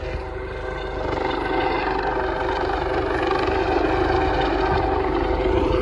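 Airbus air ambulance helicopter's turbine engines and rotors running at take-off power as it climbs away: a steady whine over a low rotor rumble, getting louder about a second in.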